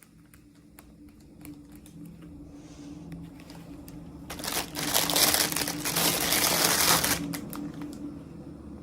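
Packaging being handled during an unboxing: light clicks and taps, then a loud stretch of crinkling for about three seconds in the middle, which then dies back to soft handling noises.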